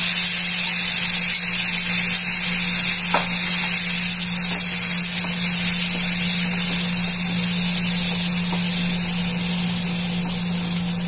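Onion, capsicum and a bay leaf sizzling steadily in oil in a nonstick pan as a tomato paste is poured over them and spread with a spatula, with a few faint spatula taps. A steady low hum runs underneath.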